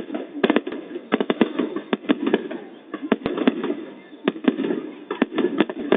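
Fireworks going off in an irregular string of sharp bangs, sometimes several a second, over a murmur of crowd voices.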